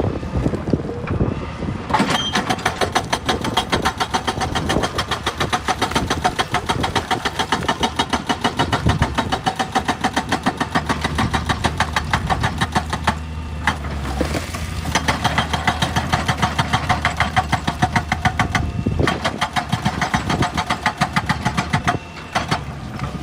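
Excavator running with rapid, regular hammering strikes in runs of several seconds, with short pauses between them. This is typical of a hydraulic rock breaker working stone.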